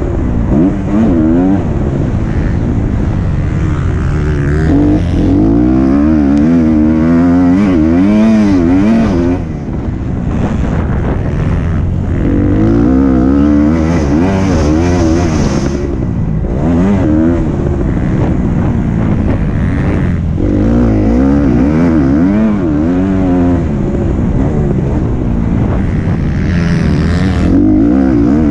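Motocross bike engine revving hard, its pitch rising and falling every second or so as the throttle opens and closes, with a short easing off about ten seconds in.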